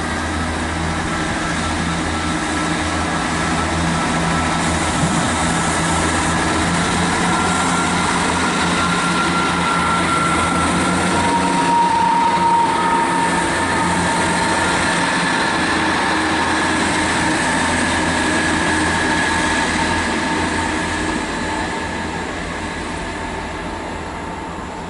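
Class 158 diesel multiple unit pulling away under power: a steady diesel engine note with higher whining tones, fading near the end as it leaves.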